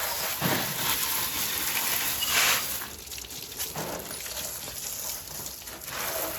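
Garden hose spraying water over a car's engine bay, the jet hissing and splattering on the engine parts. Its sound swells and fades as the stream is moved around.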